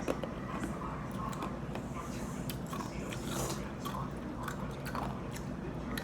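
Someone biting and crunching on a piece of homemade ice, with irregular cracks and crunches.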